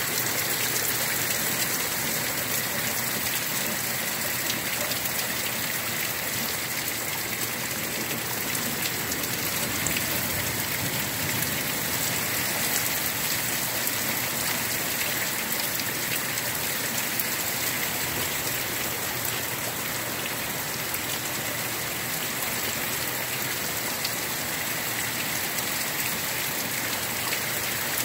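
Heavy, steady downpour of rain hitting hard surfaces, with many small sharp drop ticks over a constant hiss.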